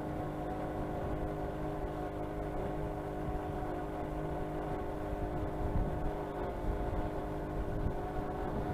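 A steady motor drone with a low rumble, holding one pitch with no bangs or changes.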